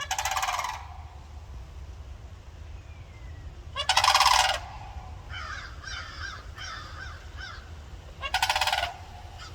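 Sandhill cranes giving loud rolling, rattling bugle calls, three times, with fainter calls in between.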